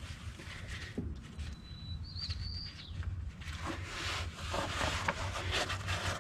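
A bird's thin whistled call, one high wavering note about two seconds in. Around it, scattered clinks and rustles of small metal parts being handled, busier in the second half, over a steady low hum.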